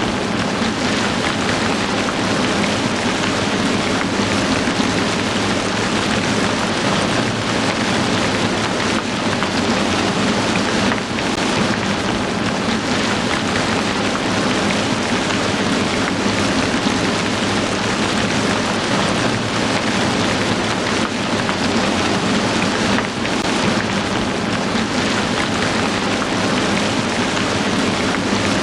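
Heavy rain falling steadily: a dense, even hiss of countless drops striking a surface.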